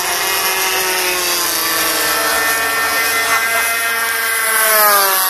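Several radio-controlled warbird models' DLE 20cc single-cylinder two-stroke petrol engines buzzing at high throttle in flight, their pitches overlapping. Near the end one engine grows louder and drops in pitch as it passes.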